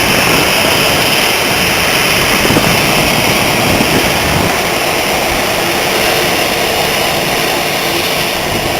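Boeing 737-700 airliner's CFM56 jet engines running steadily as the plane comes in to land, a loud, even rush of noise that eases slightly near the end.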